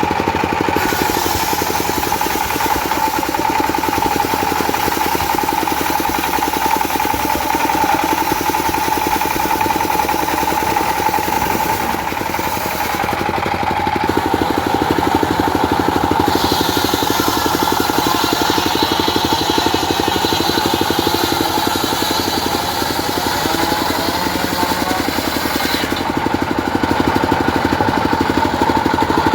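Diesel engine driving a circular saw runs steadily while the blade cuts teak wood, adding a high hiss and whine over the engine. The cutting noise breaks off briefly about halfway and stops near the end, leaving the engine and the free-spinning blade.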